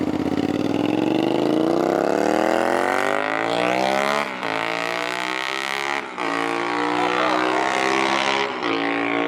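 A car accelerating hard, its engine revs climbing steadily and dropping sharply at three gear upshifts, about four, six and eight and a half seconds in.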